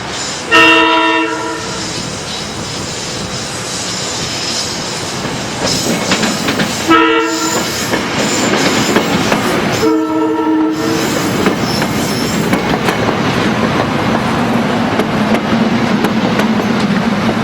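Locomotive's multi-note air horn sounding three blasts, long, short and long, then the train drawing near with wheels clacking over the rail joints and a steady engine drone.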